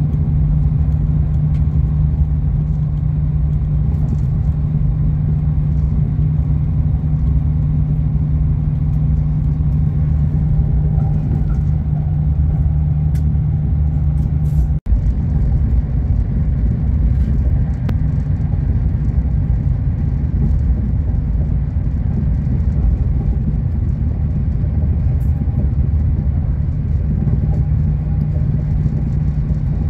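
High-speed train running at speed, heard from inside the passenger carriage: a steady rumble with a low hum. The sound drops out for an instant about halfway through.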